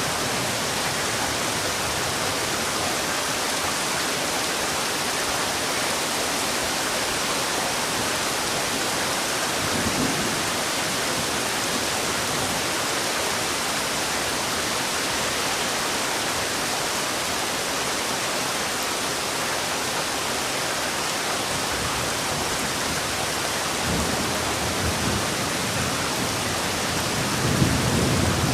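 Heavy rain falling steadily, an even hiss. A few short low rumbles rise under it, about ten seconds in and again near the end, the last a little louder.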